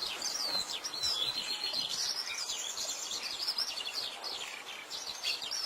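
Many small birds chirping at once, a continuous chatter of quick, overlapping high chirps and short swooping calls.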